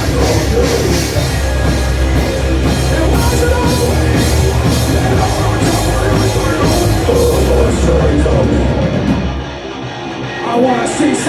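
Live rock band playing loud, with guitar, bass and a drum kit. Just over nine seconds in, the bass and cymbals drop out for about a second before the full band comes back in.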